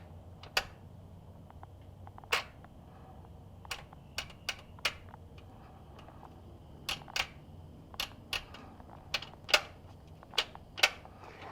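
Sharp mechanical clicks, about a dozen at uneven intervals, from the transmission's shift lever being worked through its detents to find park, with the engine not running.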